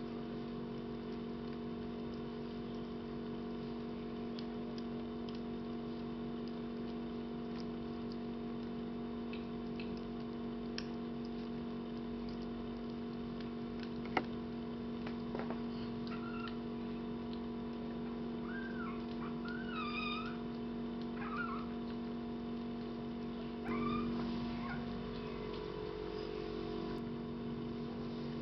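Young kittens mewing a few times in short high, wavering cries in the second half, over a steady hum. A few faint clicks come earlier, with one sharp click.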